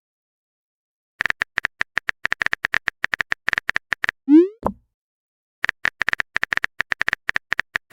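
Phone keyboard typing sound effects: two runs of rapid, identical tap clicks. Between them comes a short rising 'bloop' message-sent sound with a click just after it, marking a chat message being sent.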